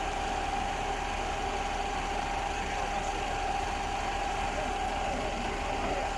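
Putzmeister 36-4 truck-mounted concrete pump running steadily: an even engine drone with a steady high whine over it.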